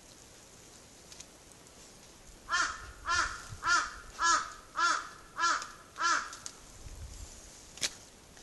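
A bird calling seven times in a row, evenly spaced about every half second, starting a couple of seconds in. A single sharp click follows near the end.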